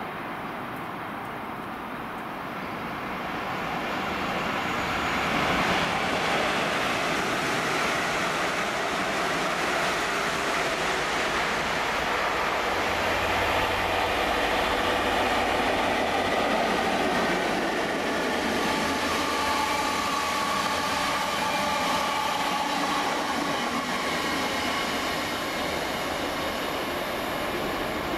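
A GB Railfreight Class 69 diesel locomotive passes with a Class 458 electric unit in tow. The noise builds a few seconds in, with the locomotive's low engine drone strongest about halfway. The towed unit's wheels then run past on the rails with a thin whining note in the last third.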